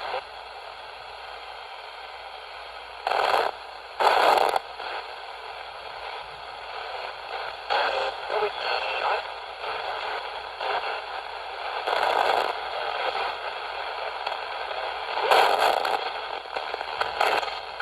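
Ghost box radio sweeping the AM band: a steady crackling static with short, louder fragments of station audio breaking through every few seconds.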